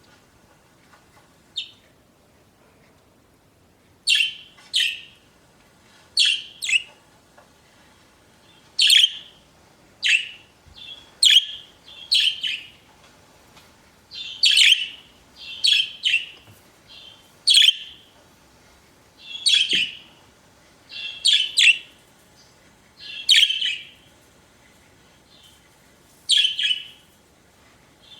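Budgerigars chirping: short, sharp, high chirps, one or two every second or so. After a near-quiet first few seconds with one faint chirp, the chirps keep coming steadily.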